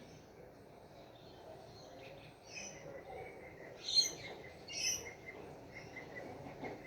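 Birds chirping and calling: a run of quick, high chirps through the second half, with two louder calls about four and five seconds in.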